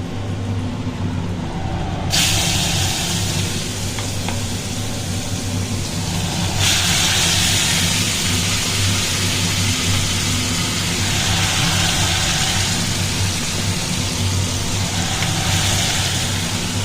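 Onion-tomato and ginger-garlic pastes sizzling in hot oil in a pan: the sizzle starts suddenly about two seconds in and grows louder again near seven seconds. A steady low hum runs underneath.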